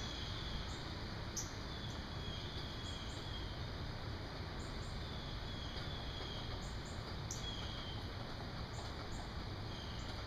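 Birds calling with short, repeated chirps over a steady low background hum of outdoor ambience.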